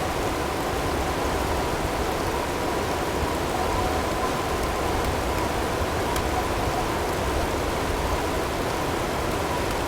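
Steady blizzard ambience: a constant noise of wind and hail. Faint steady tones are mixed in underneath.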